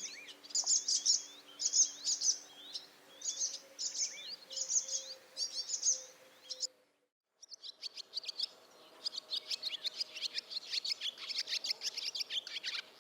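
Barn swallows twittering: quick high chirps in short bursts. The sound cuts out for about half a second around seven seconds in, then comes back as a denser run of rapid chirps.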